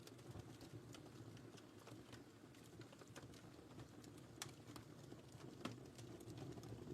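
Faint fire burning in a fireplace: irregular sharp crackles and pops over a low, steady rumble of the flames, with a couple of louder snaps in the second half.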